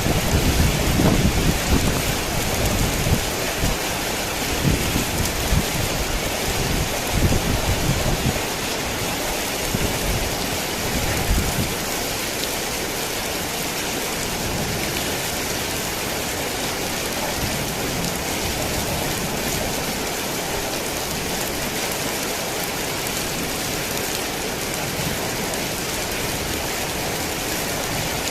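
Heavy rain falling steadily. A low rolling rumble of thunder sounds under it at first and dies away a little before halfway, leaving only the rain.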